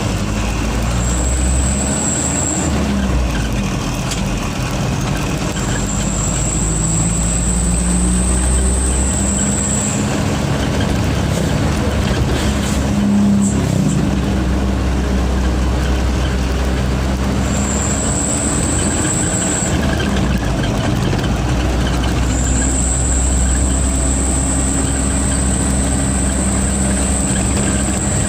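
Diesel truck engine running under way with a high turbo whistle that comes and goes four times, each time as the engine pulls, over a steady low rumble. This is the 'screaming' turbo.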